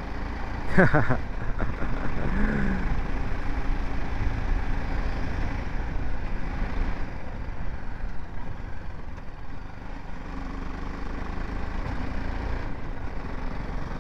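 BMW G 310 GS single-cylinder motorcycle running steadily on the road under a low, even rumble of wind noise. About a second in, a brief loud sound falls sharply in pitch.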